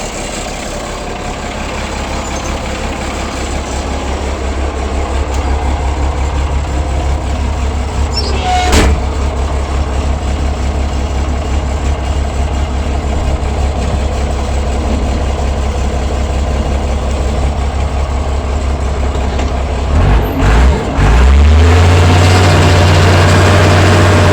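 Allis-Chalmers 940 wheel loader's diesel engine idling cold, a steady low rumble that grows slowly louder. A sharp click about nine seconds in; a little after twenty seconds the engine dips twice, then picks up to a higher, louder steady speed.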